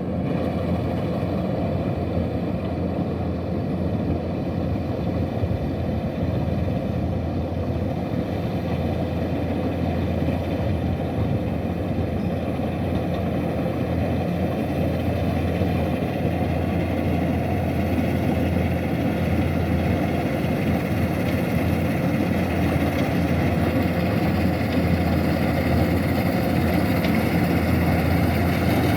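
Kubota DC-105X combine harvester's diesel engine running steadily, slowly getting a little louder toward the end.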